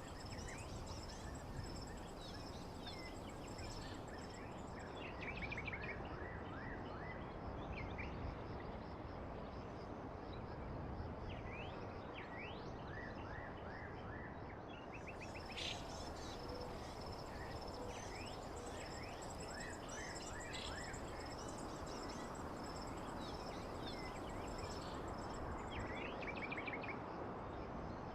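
Nature ambience: many small birds chirping and calling in short, quick notes over a steady hiss, with a continuous high-pitched insect trill running underneath.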